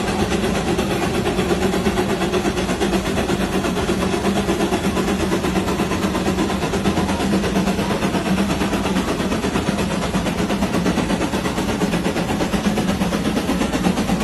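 Tractor engine running steadily at a constant speed, with a dense, even, fast-pulsing drone.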